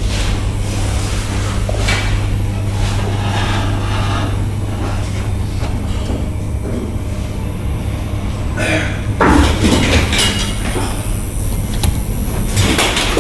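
KONE MiniSpace traction elevator with a steady low hum throughout. Its sliding doors make a loud clatter about nine seconds in, and there is a shorter clatter near the end.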